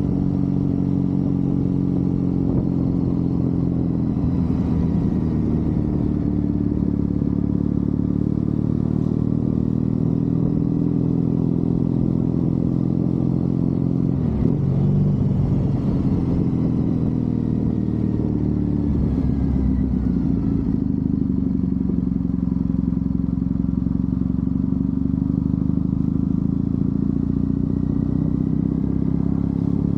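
Triumph Bonneville parallel-twin motorcycle engine running on the road, heard from the rider's position. The note is mostly steady, dipping and rising again about halfway through.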